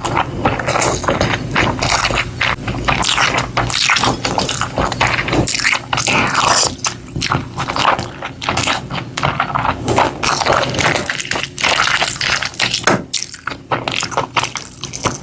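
Close-up food sounds: dense, irregular scraping, crackling and clicking, like food being handled or chewed.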